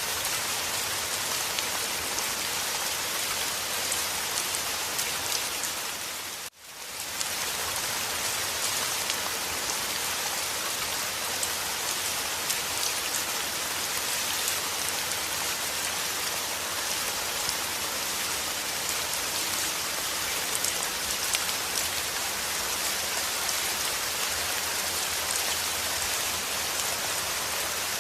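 Steady rain falling hard on a surface, a dense even hiss with scattered drop ticks. About six and a half seconds in, it drops out almost to nothing and fades back up within about half a second.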